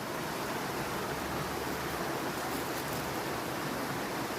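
Running water of a mountain stream: a steady, even rush.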